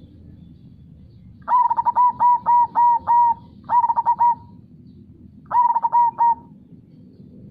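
Zebra dove (perkutut) cooing in three quick phrases of short repeated coos: a run of about seven notes, then two shorter runs of about three notes. A low steady background noise runs underneath.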